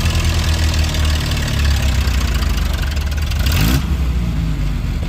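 Antique farm tractor engine running hard under load as it pulls the weight sled down the track. About three and a half seconds in, the engine note rises briefly and the loud noise drops away as the pull ends.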